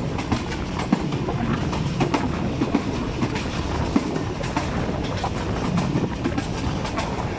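Moving passenger train heard from an open coach window: steel wheels clattering over the track with irregular clicks and knocks over a steady rumble.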